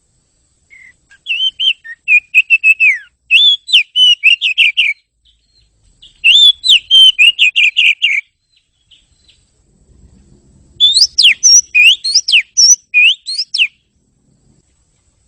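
Oriental magpie-robin (kacer) singing: three bursts of rapid whistled notes and trills, separated by short pauses.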